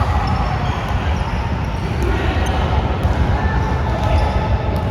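Basketball game sounds: a ball bouncing on the court with players' voices, over a steady low rumble.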